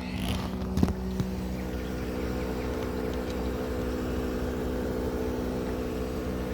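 Mitsui air conditioner running with a steady mechanical hum made of several low held tones, getting a little louder after the first second. There are two short knocks about a second in.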